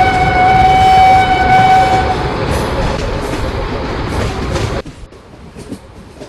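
Electric train passing close at speed with a loud rumble and wheel noise on the rails, its horn sounding one steady blast for about two seconds at the start. The train noise drops off sharply about five seconds in.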